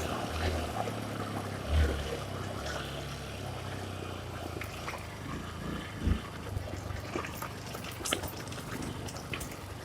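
Water running and splashing, with a dirt bike's engine running low and faint underneath and a few knocks, the loudest about two seconds in and six seconds in.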